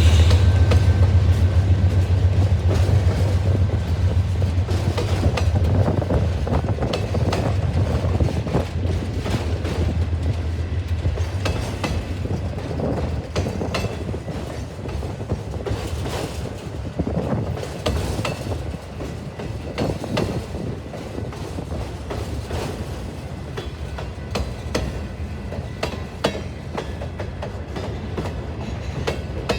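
A train passing, with a strong low engine drone at first that fades over the first half, and wheels clicking over rail joints throughout.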